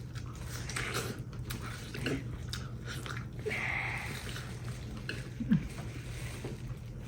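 King crab shell being cracked and peeled by hand, with scattered sharp cracks and clicks, and chewing. A steady low hum runs underneath.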